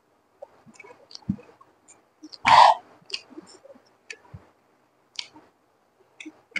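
Close-miked chewing of egg fried rice: scattered soft, wet mouth clicks and smacks, with one louder, longer mouth sound about two and a half seconds in.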